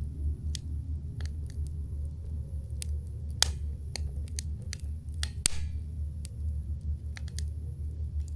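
Wood campfire crackling: sharp pops at irregular intervals, two louder ones about three and a half and five and a half seconds in, over a steady low rumble.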